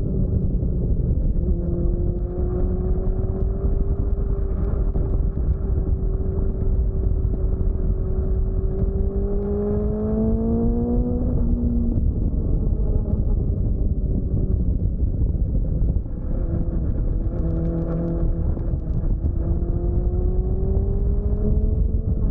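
Motorcycle engine heard from an onboard camera at track speed, under heavy wind rush on the microphone. The engine note climbs steadily under acceleration, drops about halfway through as the throttle comes off, then climbs again near the end.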